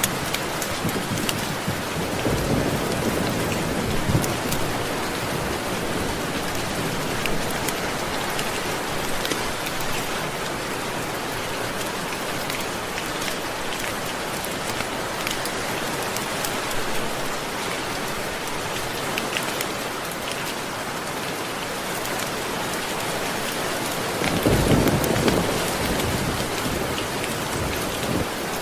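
Steady rain pattering, with low rolls of thunder: one a couple of seconds in and a louder one near the end.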